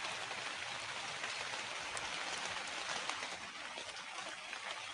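Steady rain falling: a continuous hiss with scattered drop ticks, easing a little near the end.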